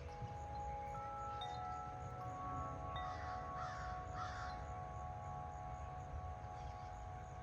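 Corinthian Bells aluminium tube wind chimes, 50-inch and 36-inch, ringing in strong wind: tones are struck one after another and hang on, overlapping, over a low rumble of wind on the microphone. Near the middle a bird calls harshly three times.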